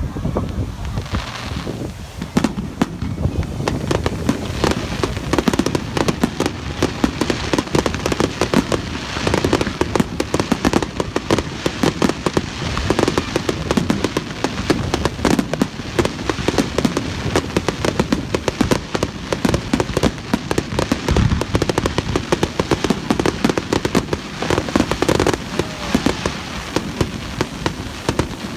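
Aerial fireworks bursting, with a dense, continuous crackle of many small rapid reports.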